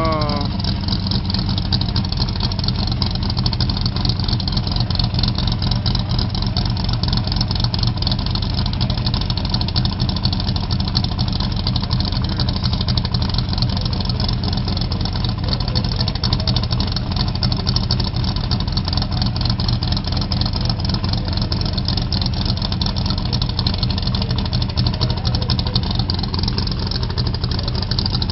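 A car engine idling steadily and loudly, with an even low pitch that neither rises nor falls.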